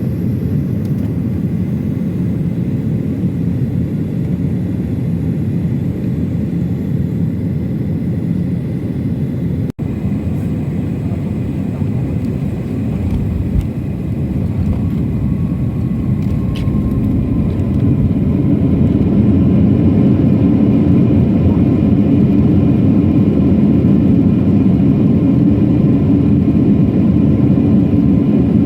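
Airliner cabin noise: a steady low rumble of engines and airflow. About two-thirds of the way through it grows louder over a couple of seconds and holds at the higher level, with a faint whine gliding slightly just before.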